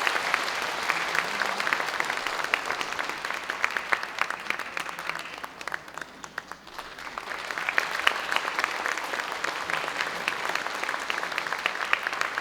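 Audience applauding, many hands clapping; the clapping thins out about six seconds in, then swells again.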